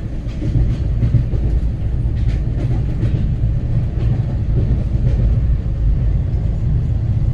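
Train running at speed: a steady low rumble, with wheels clicking over rail joints now and then.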